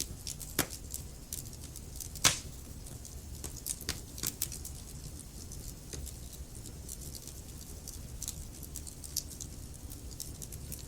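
Wood fire in a fireplace crackling, with irregular sharp pops and snaps over a low steady rumble of the flames; the loudest pop comes a little over two seconds in.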